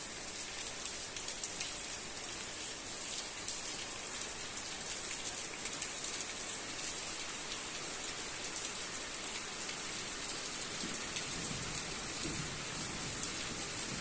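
Steady heavy rain hissing down, with many small drop ticks on hard surfaces. A low rumble of thunder starts to build near the end.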